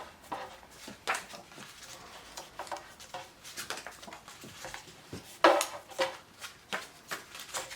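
Card stock being folded accordion-style by hand: scattered crinkles and creasing clicks, with one louder crackle about five and a half seconds in.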